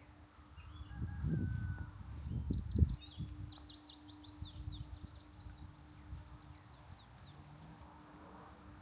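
A songbird singing a run of quick, high, downward-slurred notes for several seconds, over a faint steady hum. Dull low thumps come in the first few seconds, the loudest just before the singing picks up.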